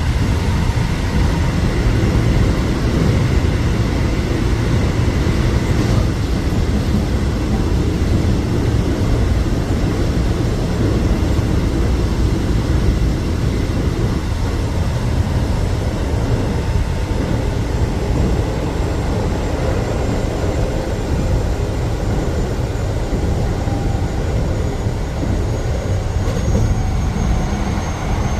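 Electric train running at speed: a steady low rumble of wheels on track, with a faint whine from the motors that shifts slowly in pitch.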